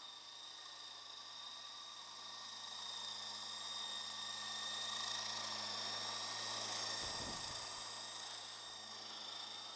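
Lama V4 coaxial RC helicopter's electric motors and rotors whirring with a high whine, growing louder through the first half and fading again toward the end. A brief low rumble about seven seconds in.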